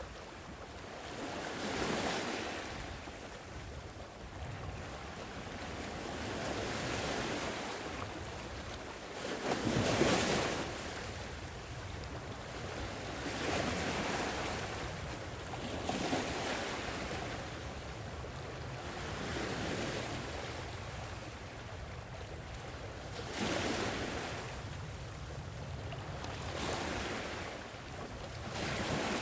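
Sea waves washing ashore in a steady series of swells, one every two to four seconds, with the biggest breaking about ten seconds in. A light wind blows under the surf.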